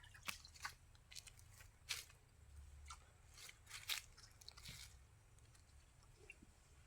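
Faint scattered squelches and crackles of hands working through mud and shallow water while feeling for fish, a few sharper ones in the first four seconds.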